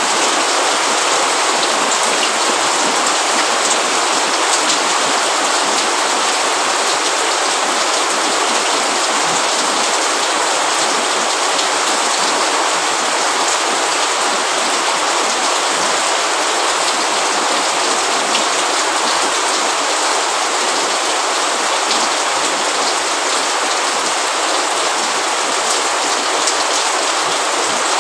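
Steady rain: an even hiss with many small drop ticks, holding at one level throughout.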